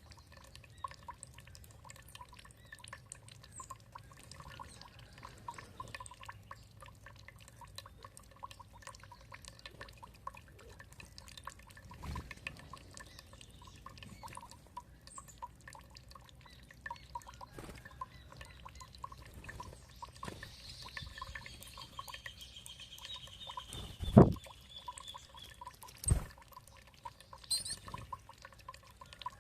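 Water dripping and trickling, a steady patter of small drips. About twenty seconds in, a bird gives a rapid trill lasting a few seconds, and a short high chirp follows near the end. Two sharp knocks stand out as the loudest sounds, around three quarters of the way through.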